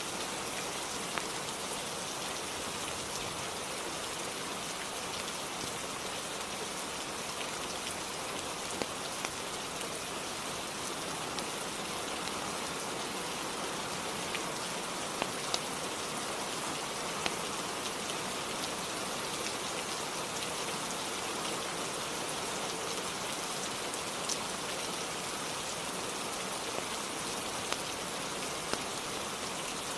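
Steady rainfall on a roof, an even hiss with a few faint sharp ticks scattered through it.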